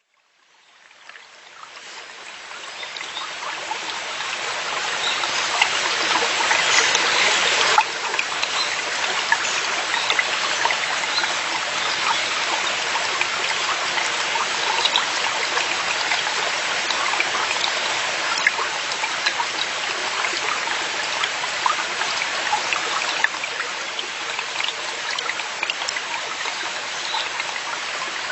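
Forest mountain stream water running and babbling, fading in over the first few seconds.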